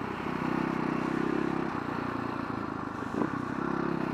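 Single-cylinder four-stroke engine of a 2011 Husaberg FS570 supermoto running at low revs, swelling twice with the throttle. A single sharp click comes about three seconds in.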